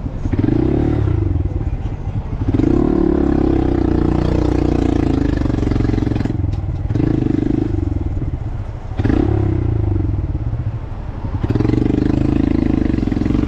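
Small single-cylinder Honda motorcycle engine pulling under throttle in several loud stretches. The sound dips briefly between them, a few times over the clip, as the rider shifts gears or eases off.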